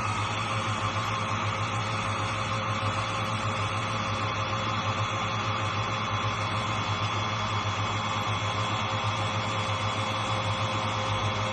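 Xiaomi Truclean W20 wet-dry vacuum running steadily, a continuous motor whine over a low hum and airflow hiss.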